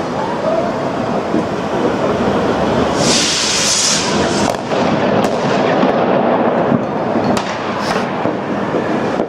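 Dense fireworks barrage: a continuous rumble of bangs and crackle. About three seconds in there is a short loud hissing burst, and several sharp single reports stand out in the second half.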